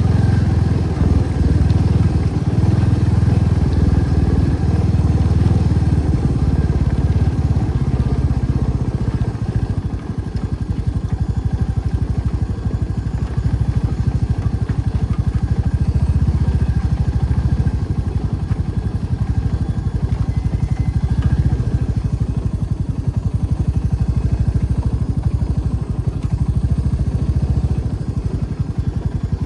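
Motorcycle engine running steadily, its sound dipping briefly about ten seconds in.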